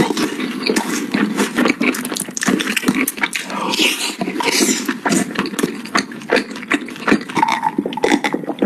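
Close-miked eating sounds of chewy rice cakes in cheese sauce: wet chewing with a dense run of irregular lip smacks and sticky clicks.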